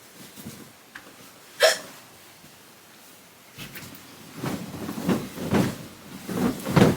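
Bedding being handled: a comforter and sheets rustling and flapping in irregular bursts, with one sharp knock about a second and a half in.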